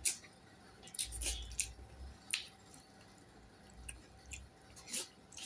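Close-up eating sounds: a person chewing food with wet mouth noises and irregular sharp clicks and smacks.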